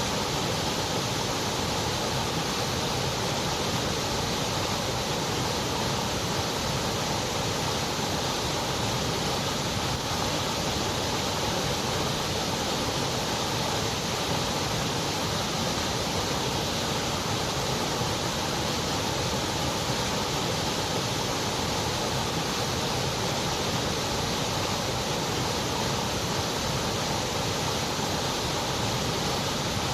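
Continuous white noise: a steady, even hiss that never changes.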